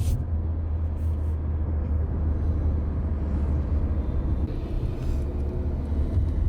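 Steady low rumble of road and engine noise from a car driving along a highway, heard from inside the cabin.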